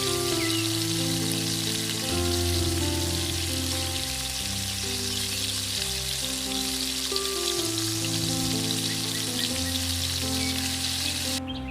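Hot oil sizzling as potato fries deep-fry, under background music with steady melodic notes. The sizzle cuts off abruptly near the end, leaving only the music.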